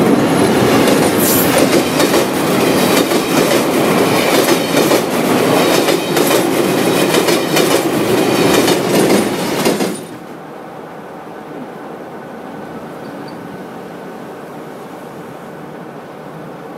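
Amtrak Vermonter passenger train passing close by on jointed stick rail over a steel bridge, its wheels making a loud, rapid clickety-clack over the rail joints. About ten seconds in it cuts off suddenly to a much quieter steady noise.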